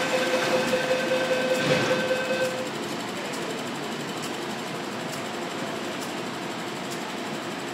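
MTR Tung Chung Line CAF train's door-closing warning signal sounding as a rapid pulsing tone while the train and platform screen doors shut. It stops about two and a half seconds in, leaving the train's steady hum.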